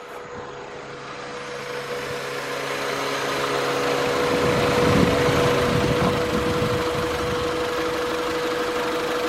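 Honda Civic four-cylinder engine idling steadily, growing louder over the first few seconds. It has just been fitted with a new valve cover gasket and spark plugs, and the owner feels it runs a little smoother.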